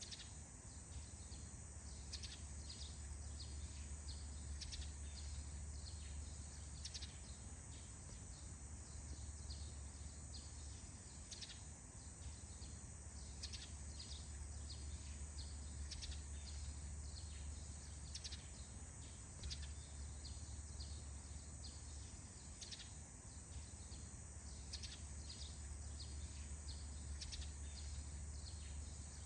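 Faint forest morning ambience: birds chirping in short, scattered calls, over a steady high-pitched drone and a low steady hum.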